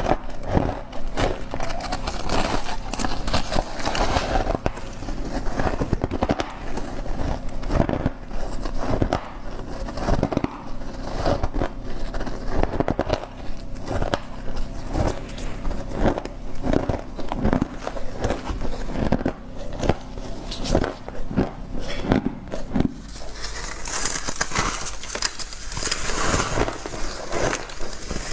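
Frost being bitten and chewed: a dense, irregular run of crunching and crackling. A hiss grows louder near the end.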